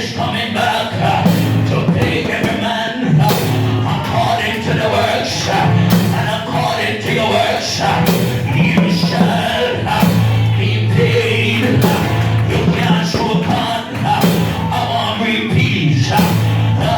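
Live gospel band music with drums and bass, and voices singing along.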